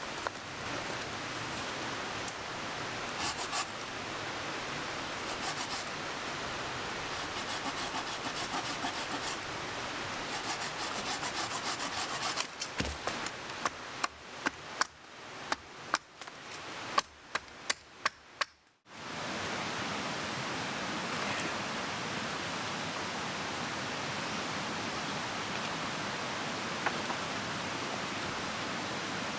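Steady rushing of a mountain stream, overlaid for several seconds by rhythmic scraping or rubbing strokes, then a quick series of sharp knocks; after a brief gap only the stream goes on.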